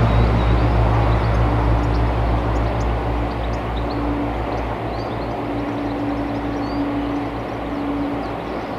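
Diesel locomotive engine running with a low, pulsing throb that slowly fades as the locomotive draws away. Faint bird chirps sound above it.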